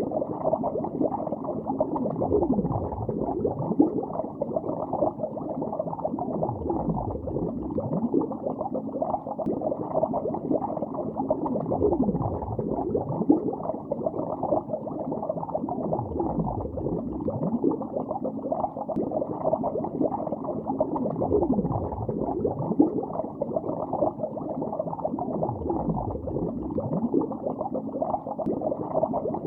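Bubbles heard underwater in a lake: a dense, steady bubbling and gurgling with many short gliding blips, muffled with no high hiss.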